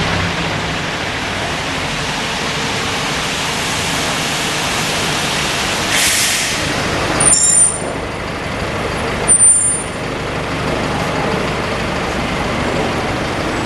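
Heavy vehicle's air brakes: a short hiss of released air, then two brief high brake squeals about two seconds apart, over steady vehicle and traffic noise.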